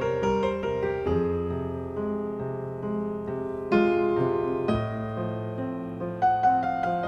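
Background music: solo piano playing a melody over held chords, with a louder chord struck about four seconds in.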